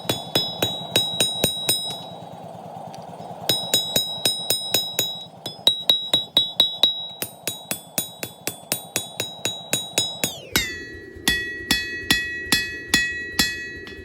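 Hand hammer striking a knife blank on an anvil in quick runs of blows, about three to four a second, each blow ringing with a high metallic tone. There is a short pause about two seconds in. About ten seconds in the ringing drops to a lower pitch.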